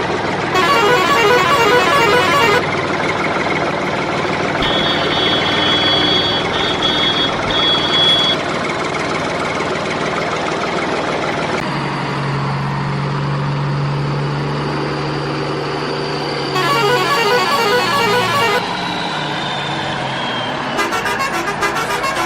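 Truck horn honks in several loud bursts over steady vehicle engine noise, with a stretch of high on-off beeping about five seconds in and a long tone slowly falling in pitch later on.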